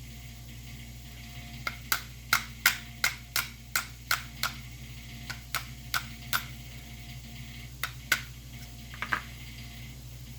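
Sharp taps, about three a second in a run of a dozen or so, then a few more spaced out near the end: a makeshift punch being struck to beat out the trigger-group pin of a Beretta A300 Outlander shotgun.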